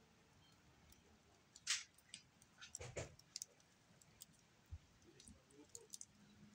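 Near silence with faint, scattered sharp clicks and ticks, irregularly spaced, a small cluster of them about three seconds in.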